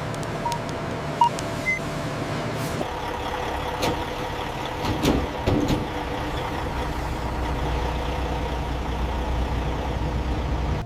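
Industrial machinery noise: a steady mechanical hum with scattered clanks and knocks, plus a few short beeps about a second in, like heavy vehicles or handling equipment working.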